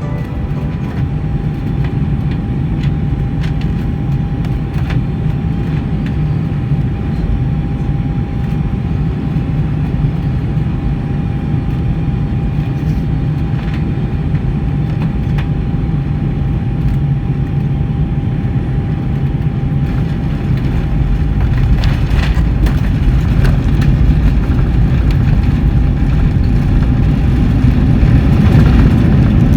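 Boeing 747-400 cabin noise on approach to landing: a steady low rumble of engines and airflow with a faint steady tone, growing louder and heavier about two-thirds of the way through.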